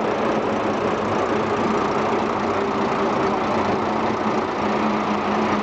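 Mitsubishi Fuso 6DS-70A 5.4-litre inline-six diesel engine of a 1973 Fuso T653 dump truck idling steadily, with an even pitch throughout.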